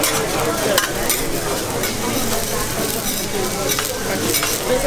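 Eggplant slices sizzling steadily on a hot steel teppanyaki griddle. A metal spatula clicks against the plate a few times as the slices are turned.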